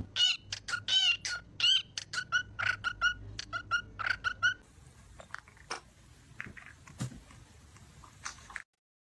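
Parrot calling: a rapid run of short, pitched chirps and squawks for about four and a half seconds, then only faint scattered clicks and taps until the sound cuts off shortly before the end.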